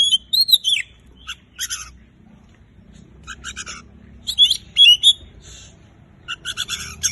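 Oriental magpie-robin singing: short phrases of quick, sharp whistled and chattering notes, repeated with brief pauses between them.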